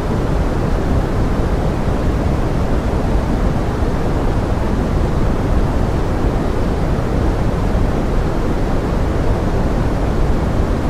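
Steady pink noise: an even, deep hiss weighted toward the low end, unchanging throughout.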